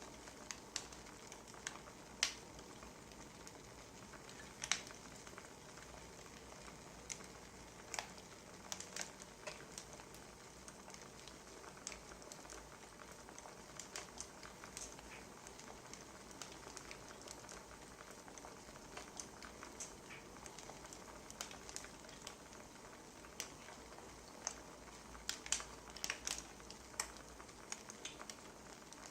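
Wood fire crackling: irregular sharp pops and snaps over a steady soft hiss, coming more thickly near the end.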